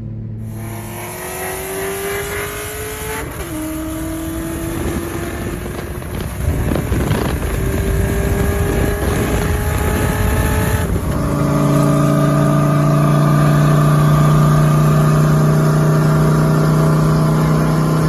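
Modified Nissan 370Z's VQ-series V6 engine accelerating hard: the revs climb, fall sharply at a gear change about three seconds in, and climb again. About eleven seconds in the sound switches abruptly to a loud, steady engine note held at one pitch.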